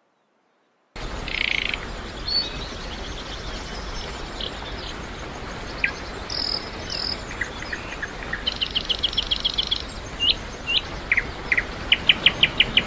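Birds chirping and calling outdoors over a steady background hiss, with quick trilled runs of notes. The sound begins after about a second of silence.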